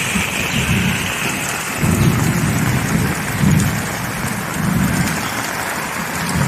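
Heavy rain pouring down in a steady, loud hiss, with low rumbles that swell and fade every second or so.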